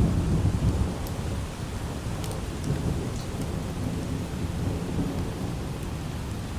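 Steady light rain with low rolling thunder, the rumble loudest about the first second, with a few faint sharp ticks scattered through.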